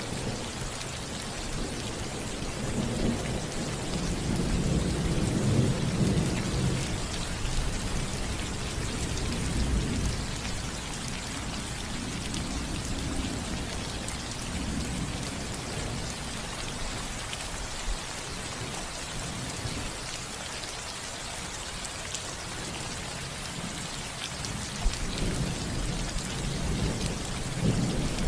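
Steady rain pattering on a house roof, a continuous even hiss, with low rolling thunder rumbles that swell a few times, strongest a few seconds in and again building near the end.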